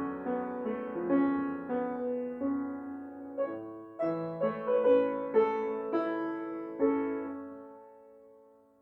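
Solo piano playing the slow closing bars of a lyrical piece in chords; the final chord, struck about seven seconds in, rings and fades away.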